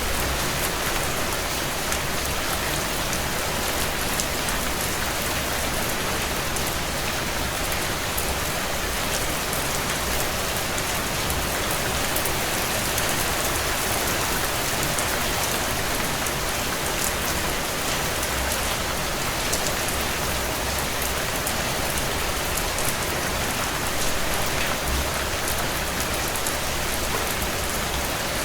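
Heavy rain falling steadily on window glass, an even hiss, with faint scattered crackles from a wood fire burning in a fireplace.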